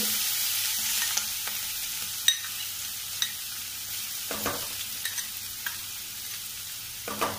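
Green chilli, curry leaf and garlic paste sizzling in hot oil in a kadhai just after going in, the sizzle slowly dying down. A sharp click sounds about two seconds in.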